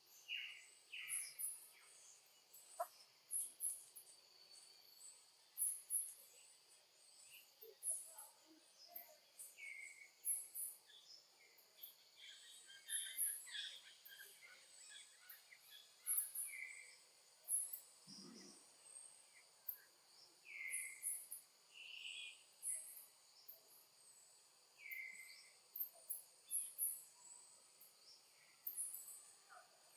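Outdoor ambience: a steady insect drone, with many short, high chirps repeating throughout and a few brief, lower calls scattered among them.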